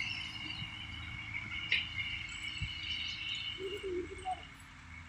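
Crickets trilling steadily in a high, continuous drone, over a faint low rumble.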